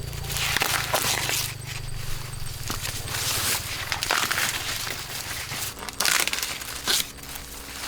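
Repeated rustling, crinkling noise in swishes of up to about a second, over a low steady hum.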